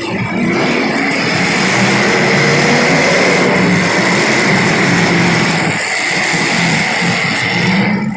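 Small single-cylinder race car engines running hard during a race. The pitch wavers as they rev through the turns, with a brief drop about six seconds in.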